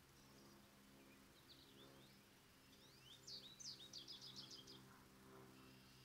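A songbird singing faintly. Scattered high chirps come from about a second and a half in, then a quick run of sharp, high, falling notes from about three to five seconds. A steady low hum runs underneath.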